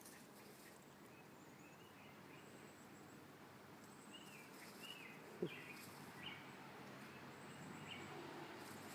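Near silence with a series of faint, short bird chirps, and one soft knock about five and a half seconds in.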